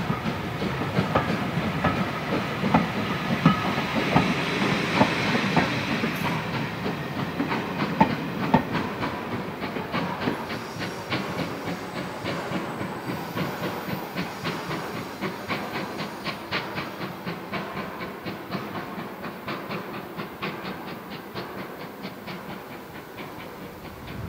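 Pullman coaches of a train running past on jointed track, their wheels clicking over the rail joints. The rumble and a steady run of clicks fade as the train draws away.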